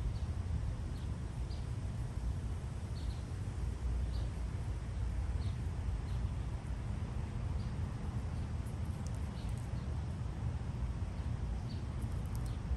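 Faint short high bird chirps, roughly one a second, over a steady low rumble.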